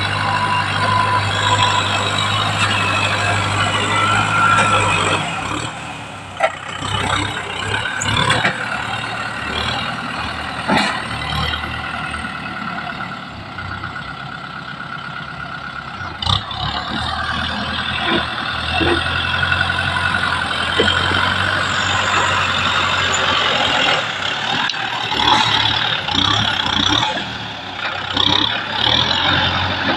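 Kubota M6040 SU tractor's diesel engine running steadily while working. Its hum sinks and rises again partway through, with a few sharp knocks and clanks over it.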